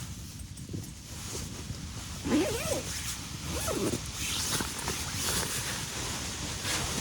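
Two short animal calls about a second apart, each rising and falling in pitch, over steady rustling and low background noise.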